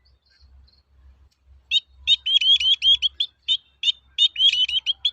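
Long-tailed shrike (cendet) singing: after a short pause, a fast run of sharp, upward-hooked chirps, several a second, in quick bursts broken by short gaps.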